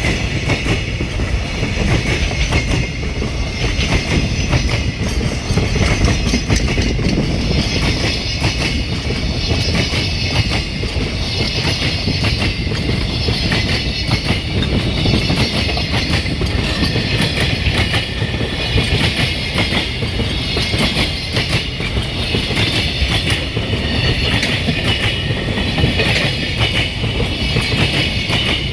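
Freight train rolling past steadily, its wagon wheels clicking rapidly over the rail joints.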